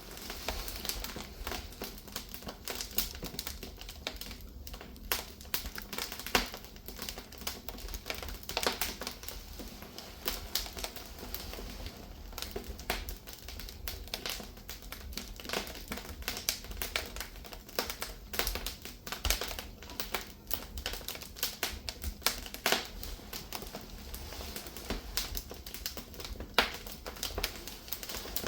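Firewood burning under a cast-iron cauldron, crackling and popping in sharp, irregular snaps over a low, steady rumble.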